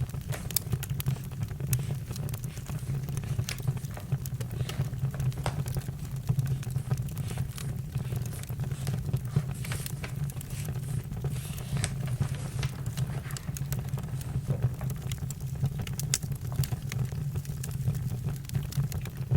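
Campfire crackling: irregular sharp pops and snaps over a steady low rumble, with a brief hiss about half way through.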